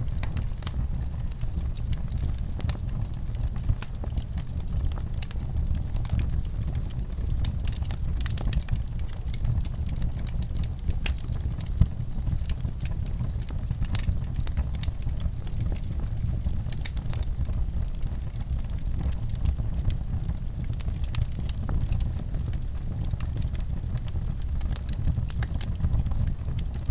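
A fire crackling: frequent sharp pops and snaps over a constant low rumble, with one louder pop about halfway through.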